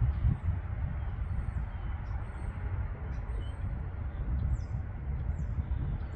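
Thin, high bird calls, each a short falling note, repeated every second or so over a low, uneven rumble.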